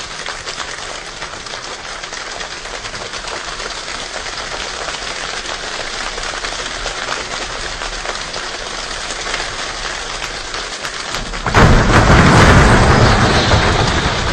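A group imitating a rainstorm by hand: a dense patter of many small claps and slaps that slowly swells like heavy rain. About eleven and a half seconds in it breaks into a sudden, much louder and deeper burst standing in for a thunderclap, then eases slightly.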